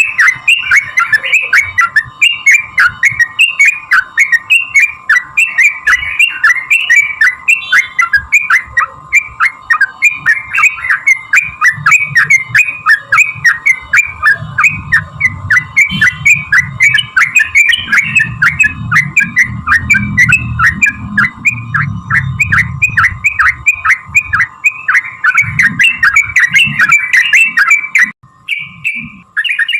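Yellow-vented bulbul (trucukan) singing a long, fast run of bubbly, rapidly repeated notes, the excited 'ropel' song used as a lure to set other bulbuls singing. The song breaks off shortly before the end, followed by one brief call.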